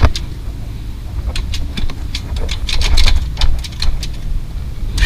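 Small motorcycle engine running at low revs, with scattered sharp clicks and knocks over it.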